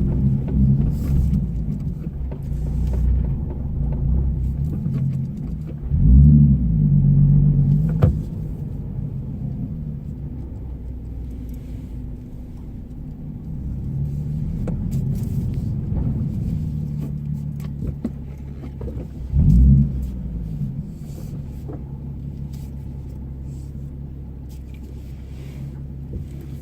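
Nissan Fairlady Z34's 3.7-litre V6 with a Be Free aftermarket muffler, heard from inside the cabin while driven gently: a low, steady engine note that swells briefly with throttle twice, about six and about nineteen seconds in. It settles to a quieter steady run near the end.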